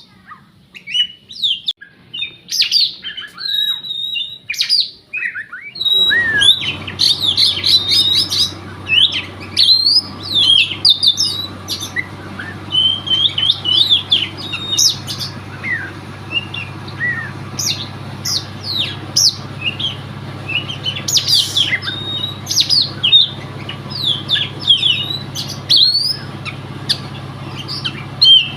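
Oriental magpie-robin singing a rapid, continuous run of varied whistles and chirps. A steady low hum comes in suddenly about six seconds in and continues under the song.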